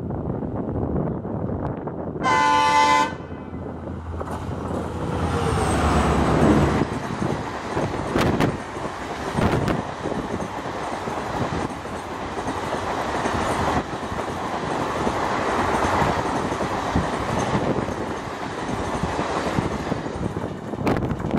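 EMD WDP4D diesel locomotive sounding one short horn blast about two seconds in, then passing at speed (about 105 km/h) with its engine note falling in pitch as it goes by. The train's passenger coaches follow, rushing past with the wheels clattering over rail joints.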